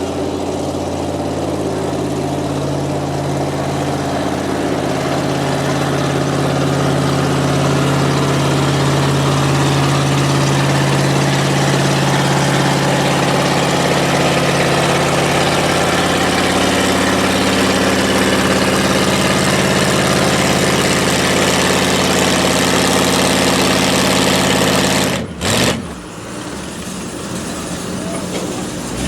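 A competition pulling vehicle's engine running hard and steady under load on a pull. It cuts off abruptly about 25 seconds in, leaving quieter engine noise.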